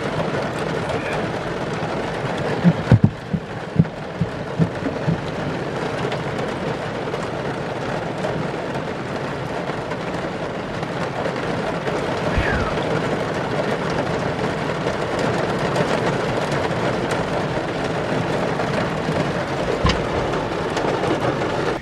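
Heavy rain falling steadily on a roof in a downpour, with a few sharp knocks about three to five seconds in.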